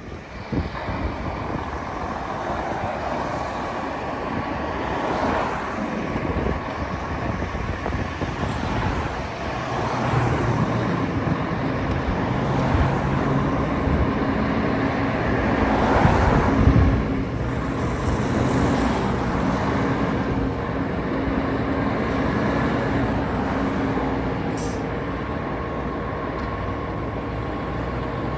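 Fire engine and ladder truck diesel engines running and driving past on a road, amid traffic noise. The sound swells several times, loudest about halfway through, with a steady low engine drone in the middle stretch.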